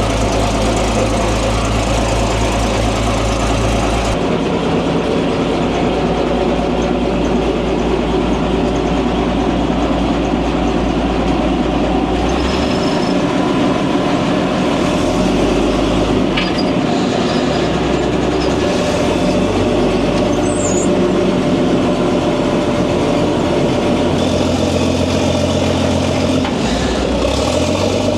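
Hetzer's Praga straight-six engine idling steadily just after starting, running well. Its low note shifts about four seconds in and again around twelve seconds in.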